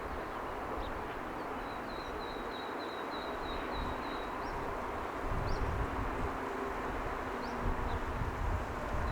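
Steady distant hum of a city heard from above, with a high, rapid chirping trill about two seconds in and a few short rising bird chirps scattered through; low buffeting rumble comes in about halfway through.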